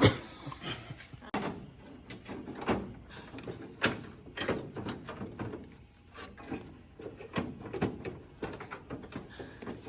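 Irregular metallic clicks and knocks of hand tools working on car parts, several sharper knocks in the first half.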